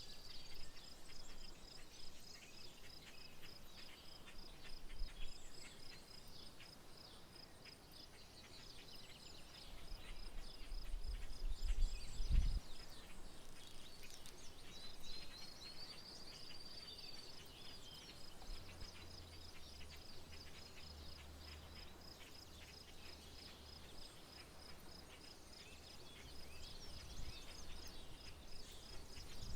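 Open-country ambience: a steady high insect trill of rapid, even pulses, with scattered bird chirps and calls over it, and a low rumble that swells about ten seconds in and stops suddenly a couple of seconds later.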